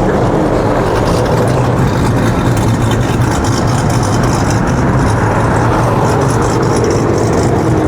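Car engines and road traffic running steadily and loud, with a low engine hum underneath.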